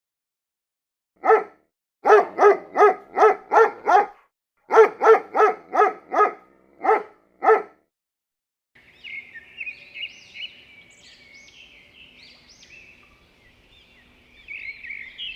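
A dog barking in quick runs, about fourteen barks in all, stopping about seven and a half seconds in. Birds then start chirping over a faint steady hum.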